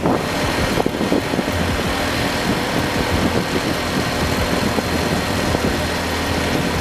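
Heavy haulage truck engine running steadily, with road and mechanical noise.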